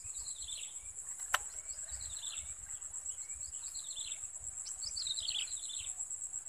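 A songbird repeating a short, falling, chirpy phrase every second or so over a steady high-pitched insect drone, with one sharp click about a second in.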